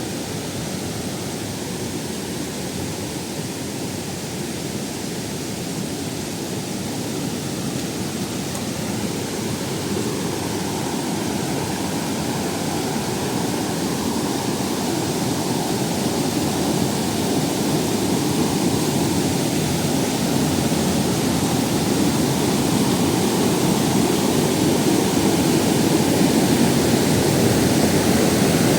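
Waterfall rushing: a steady, unbroken rush of water that grows slowly louder.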